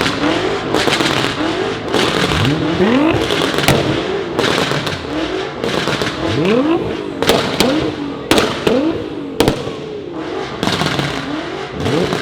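A tuned sports car's engine revved hard in a series of quick blips, the pitch rising and falling with each one, with sharp exhaust pops and bangs between the revs, several in the second half.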